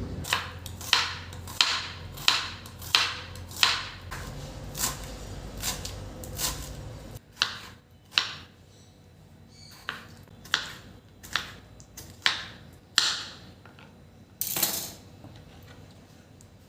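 A run of sharp, evenly spaced kitchen knocks, about one and a half a second, over a low hum that cuts off suddenly about seven seconds in. Then slower, irregular knocks follow, and a brief hiss comes near the end.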